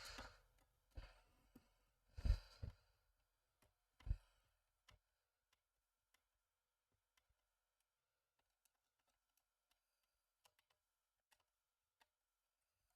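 Faint clicks and light knocks of small model parts being handled, a few louder knocks in the first four seconds, then only scattered faint ticks.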